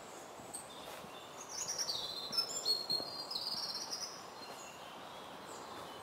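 A small songbird singing one quick phrase of high chirps and trills, stepping down in pitch and lasting about two and a half seconds, over a steady outdoor background hiss.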